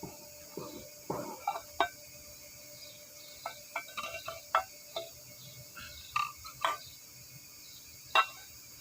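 Irregular short clicks and clinks of hand tools and parts being handled during car repair work, a dozen or so light knocks scattered over a faint steady hiss.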